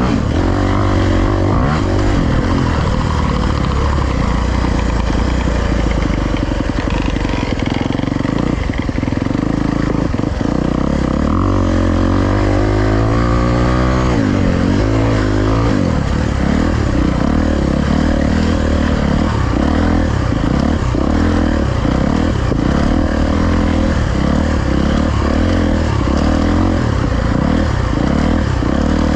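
Dirt bike engine running under throttle while riding. Its revs climb steadily about ten seconds in, drop sharply a few seconds later, then rise and fall quickly with the throttle, over a steady rush of wind noise.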